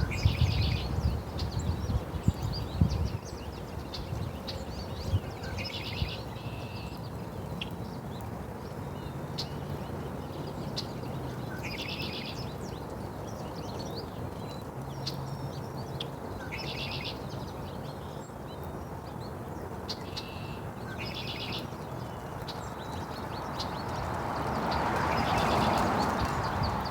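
A songbird sings a short trilled phrase again and again, about every five or six seconds, with scattered chirps in between. There are low knocks in the first few seconds, and a rushing noise swells and fades near the end.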